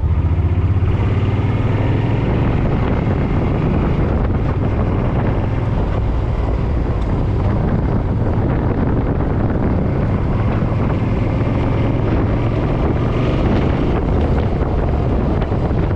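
Suzuki M50 motorcycle's V-twin engine running steadily while riding, with wind noise buffeting the microphone.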